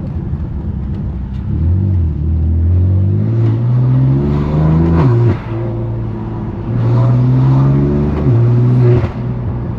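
Straight-piped 3.0-litre twin-turbo S55 inline-six of a 2018 BMW F80 M3 Competition accelerating, its exhaust note climbing in pitch and then dropping sharply about five seconds in at a gear change, then pulling again before easing off near the end.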